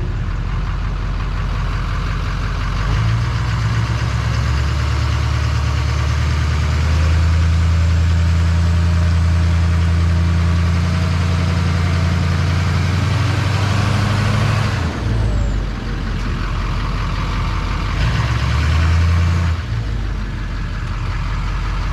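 Four-wheel-drive tow truck's engine revving hard under load as it tries to pull a trailer out of wet mud. The revs build about 3 s in, hold high, drop off about 15 s in, climb again and ease off again near 19.5 s.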